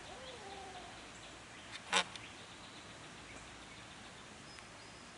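A faint, distant bird call in the first second, then a single sharp click about two seconds in over a quiet outdoor background.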